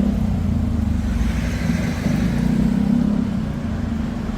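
Traffic on a street: a motor vehicle engine runs steadily close by, a low hum with a light wash of road noise.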